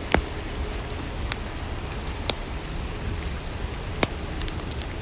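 Steady rainfall, an even wash of rain, with a few separate sharp drip-like ticks scattered through it.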